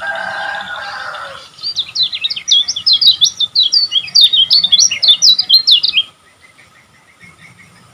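Kecial kuning (lemon-bellied white-eye) song: a harsh buzzy call for about a second and a half, then a rapid run of quick, jumpy high chirping notes for about four seconds that stops abruptly.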